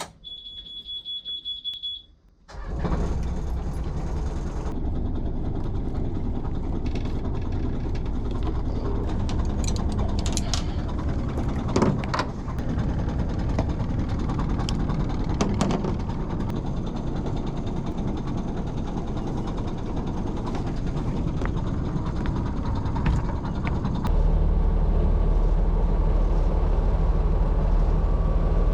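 A boat's engine running steadily under way, with a louder, lower rumble from about 24 seconds in. A steady high-pitched beep sounds for the first two seconds before the engine noise comes in.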